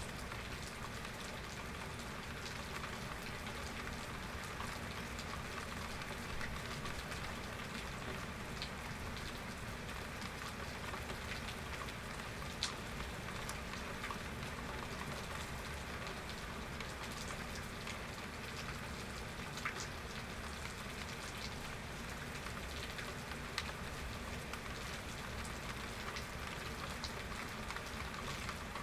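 Steady, heavy rain falling and pattering on surfaces, with a few sharper single drop ticks standing out now and then.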